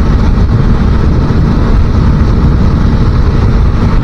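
250cc motorcycle cruising at road speed: a steady, loud rush of wind noise and engine running, heaviest in the low end.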